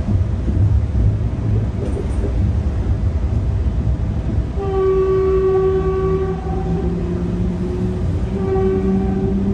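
Stadler FLIRT commuter train running on the rails, heard from on board: a steady low rumble with a held droning tone over it. The tone fades out just after the start and comes back about four and a half seconds in.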